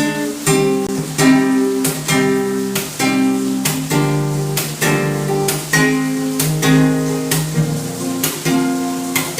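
Acoustic guitar strumming chords in a steady rhythm, about one to two strokes a second: the instrumental intro to a sertanejo song cover.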